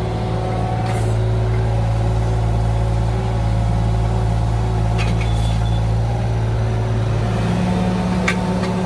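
Engine of an excavating machine running steadily at a constant speed, its note shifting slightly about seven seconds in, with a few faint clinks.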